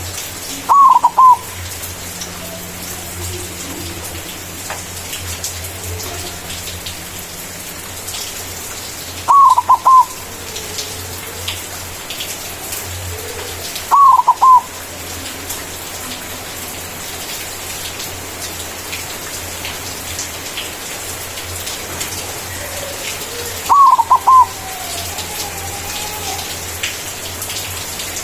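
Zebra dove (white perkutut) cooing: four short, loud phrases of a few quick notes each, spaced several seconds apart, over a steady hiss.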